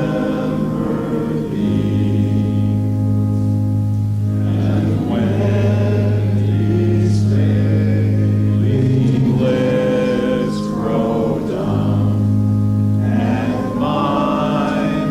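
Congregation singing a slow hymn, long held chords over a steady bass that change every few seconds.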